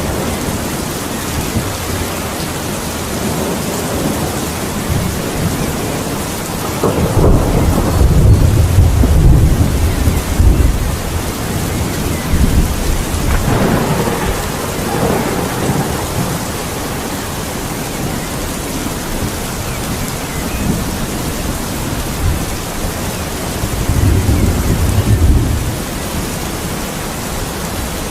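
Steady heavy rain with rolls of thunder: a long rumble about seven seconds in, another about thirteen seconds in, and a shorter one near the end.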